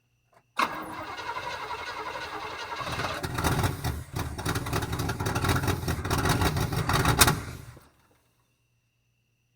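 1977 Cadillac Coupe DeVille's 425 V8 cranking on the starter, its first start attempt after new head gaskets, getting louder and heavier about a third of the way through before stopping suddenly after about seven seconds.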